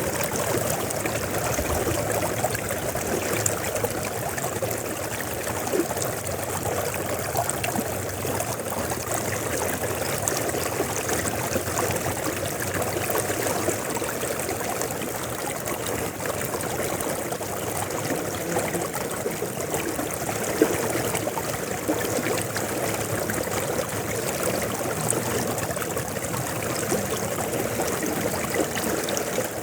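River water flowing: a steady, even rush of moving water with fine trickling detail, and one brief louder tick about two-thirds of the way through.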